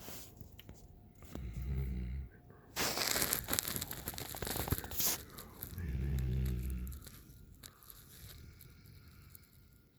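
Alaskan malamute puppy snoring: two low snores about four and a half seconds apart, with a loud, noisy stretch between them.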